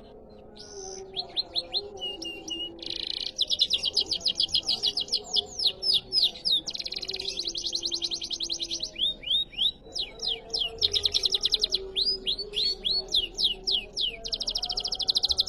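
Canary singing a rapid riwikan song: long runs of very fast repeated high notes, broken by separate downward-sweeping notes. It starts about half a second in.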